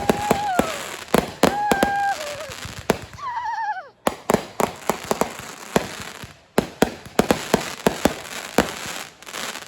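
Fireworks finale: a dense run of sharp bangs and crackles, several a second. In the first four seconds a few long, held tones fall away in pitch.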